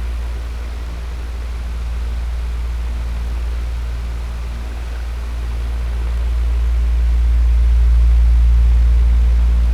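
Electric fan running steadily: a deep, even rush of air with a faint steady hum, swelling and easing slowly in loudness.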